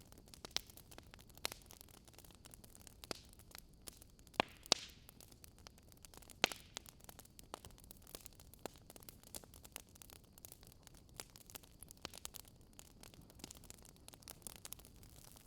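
Wood fire crackling: sharp, irregular pops about once a second over a faint, steady hiss.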